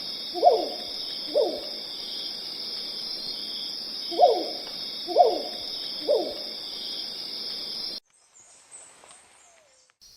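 An owl hooting: single hoots that slide down in pitch, about a second apart, two and then, after a pause, three more. A steady high insect chorus runs behind them and cuts off abruptly near the end.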